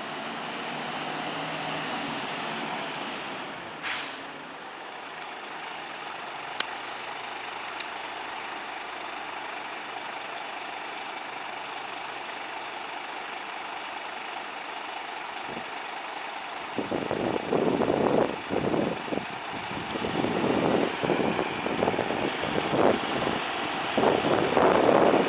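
Fire engine's diesel engine running, with a short air-brake hiss about four seconds in. About two-thirds of the way through, it becomes much louder and uneven as the appliance pulls away.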